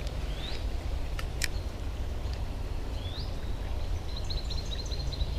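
Outdoor creekside ambience: a steady low rumble with small birds chirping, two short rising calls and then a quick run of high chirps near the end. Two sharp clicks come about a second in.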